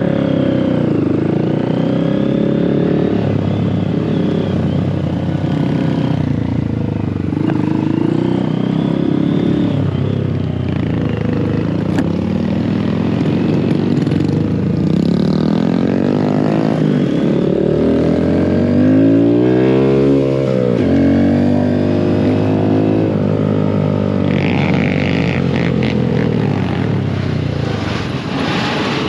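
Mini motorcycle engines running on a ride, revving up and down with the pitch rising and falling as the riders accelerate and shift. A long climb in revs about two-thirds through ends in a sudden drop.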